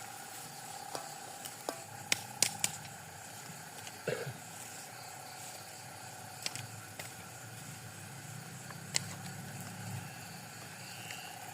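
Food sizzling as it fries in oil in a pan, with a few sharp knocks scattered through, the loudest a couple of seconds in.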